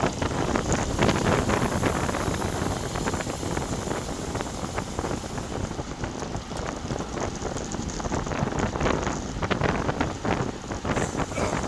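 Wind buffeting the microphone of a bike-mounted GoPro action camera while riding in heavy wind: a steady, gusty rush of noise.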